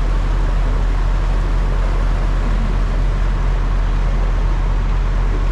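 A vehicle engine running steadily: a continuous low drone with an even rushing noise over it, heard from on board.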